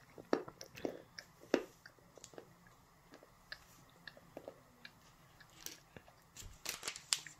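A child chewing a piece of chocolate: soft, scattered mouth clicks, more of them in the first two seconds. A few sharper clicks come near the end.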